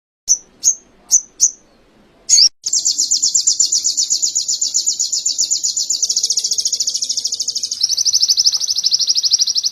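Small songbird singing in canary style: four short high chirps, then a long, rapid, high-pitched trill that shifts pitch twice.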